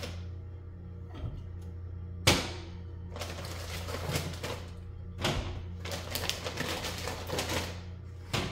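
Items being handled and set into a fridge: one sharp knock about two seconds in, then irregular rustling and clattering of packages and containers, over a steady low hum.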